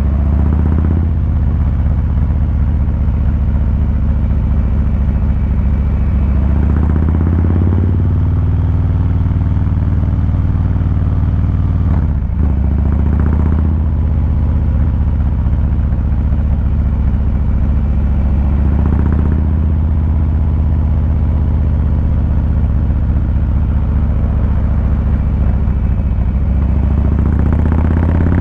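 Harley-Davidson Fat Boy 114's Milwaukee-Eight 114 V-twin engine and exhaust running steadily while riding, with a deep, even low note. There is a brief dip in the sound about twelve seconds in and a few short swells in the note.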